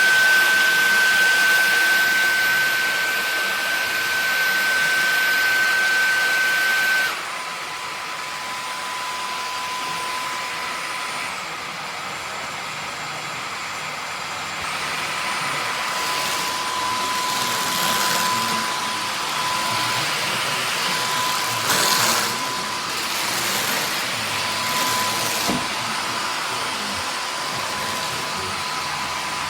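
Dyson Gen5outsize cordless stick vacuum running: a rush of suction air under a steady high motor whine. About seven seconds in the whine drops suddenly to a lower pitch and the sound gets quieter as the motor slows. Later come a couple of brief swells of hiss.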